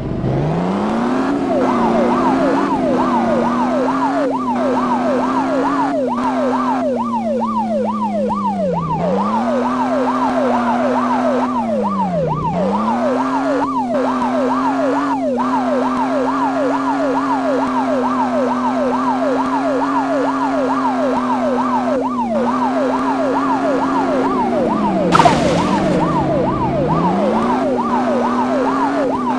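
Police car siren sounding in a fast yelp, its pitch sweeping up and down several times a second, over a steady lower tone that sags and recovers a few times. A short, loud burst of noise cuts in about 25 seconds in.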